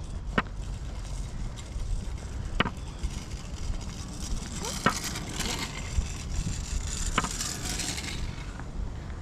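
Footsteps and movement of a body-worn action camera along a paved trail: a steady low rumble with a sharp click about every two seconds, and a hiss that swells in the middle and fades near the end.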